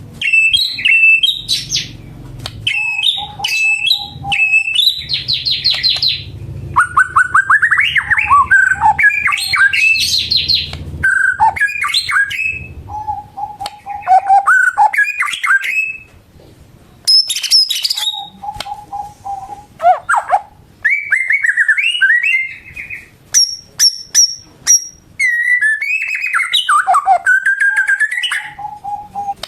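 White-rumped shama (murai batu) in full, vigorous song: a continuous run of varied phrases of rich gliding whistles, rapid trills and sharp chips, broken by short runs of steady repeated lower whistled notes. A faint low rumble sits under the song for the first half.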